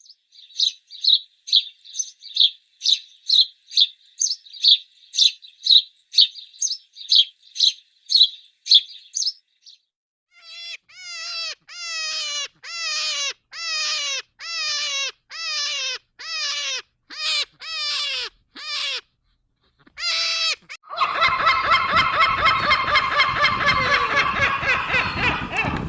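Bird calls in three runs. First comes a quick series of high chirps, about two a second. Then, after a short pause, a slower series of calls, about one a second, each falling in pitch. About 21 seconds in, a dense chorus of many overlapping calls begins.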